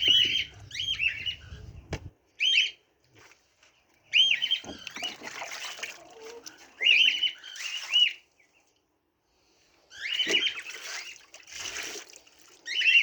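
Kept birds calling: short, high-pitched arched calls in quick clusters of two or three, repeating every second or two, with rustling noise between them. A low hum underneath cuts off about two seconds in.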